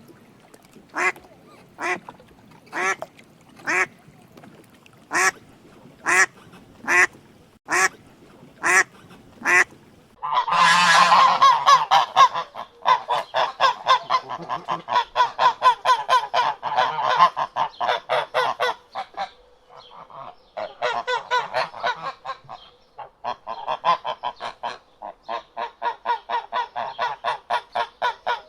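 A duck quacking, single quacks about once a second, for the first ten seconds; then a flock of waterfowl calls loudly in a rapid, overlapping stream of honks and cackles, with two short breaks.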